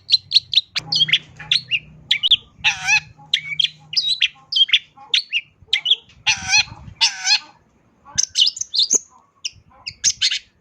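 Long-tailed shrike (cendet) singing a fast, varied song of short chirps and imitated phrases, broken by a few longer, harsh, raspy notes.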